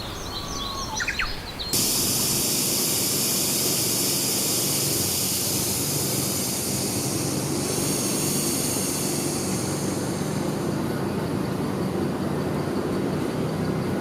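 Birds calling briefly, then an abrupt switch to a loud, steady rushing hiss over a low hum that runs on unchanged.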